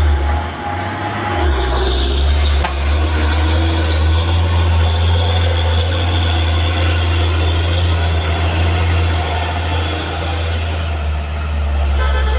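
Heavy truck engine running with a steady low drone and road noise, faltering briefly about half a second in. A horn starts sounding right at the end.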